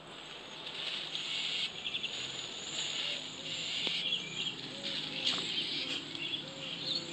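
Birds chirping and calling, with quick high chirps over a steady hissing chorus and a lower call repeated in pairs in the second half.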